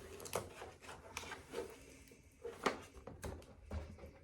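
Latex balloon being inflated and handled close up: soft, irregular rubbing and scraping of the rubber, with a few short sharp squeaks or snaps.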